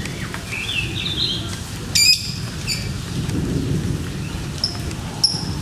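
Steady rain falling, with caged lovebirds giving short high chirps and one loud, shrill squawk about two seconds in.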